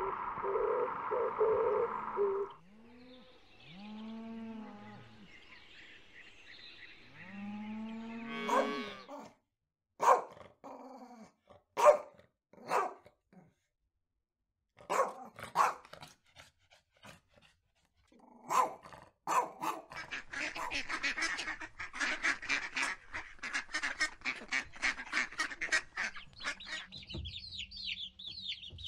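A run of animal sounds: several drawn-out honking calls that rise and fall in pitch, then a dog giving short single barks, then chicks peeping, the peeping getting higher near the end.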